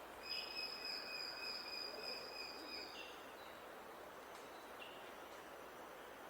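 A bird's long, steady whistled note held for nearly three seconds, followed by short, higher single notes, over a steady outdoor hiss.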